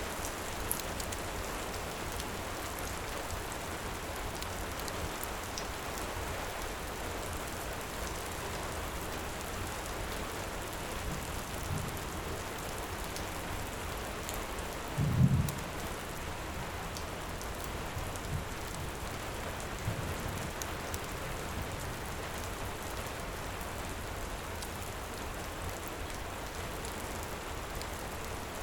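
Heavy rain falling steadily, with the small sharp snaps of a crackling wood fire scattered through it. About halfway there is a brief low rumble of thunder, the loudest moment, with a few fainter low thumps around it.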